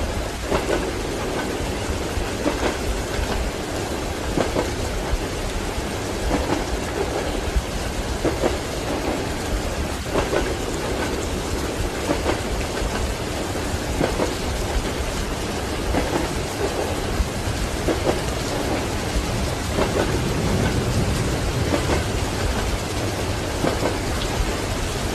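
Steady rain with thunder, over the rhythmic clack of train wheels on rail joints, about one knock every two seconds. A low thunder rumble swells late on.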